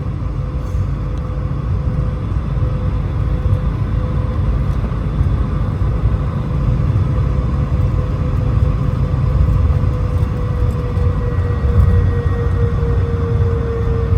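Jet airliner engines running: a steady low rumble with a turbine whine that slowly drops in pitch, and a higher whine joining about ten seconds in.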